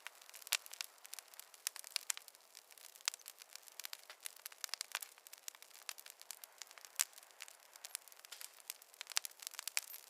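Wood fire crackling in a fireplace: a faint thin hiss with irregular sharp pops and snaps, several a second, one louder snap about seven seconds in.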